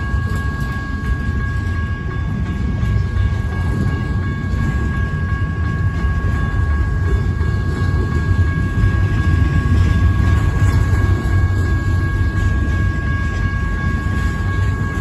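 Double-stack intermodal freight train cars rolling past close by, a steady loud rumble of wheels on rail with no letup. Two steady high tones ring over the rumble throughout.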